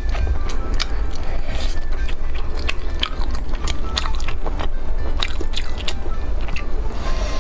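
Close-miked biting and chewing of grilled meat on skewers, with many short sharp clicks, over background music.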